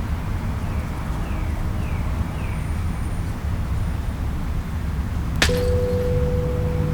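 A low rumbling drone with a few short falling chirps, then about five and a half seconds in a sharp metallic hit that rings on as a steady tone.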